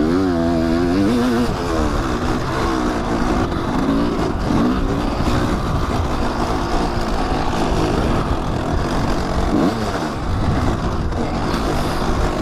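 Kawasaki dirt bike engine revving up and down as it is ridden along a trail, its pitch rising and falling with the throttle. Strong rushing noise runs under the engine.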